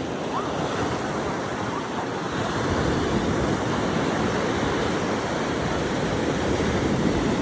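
Ocean surf washing onto a beach, a steady rush of breaking waves.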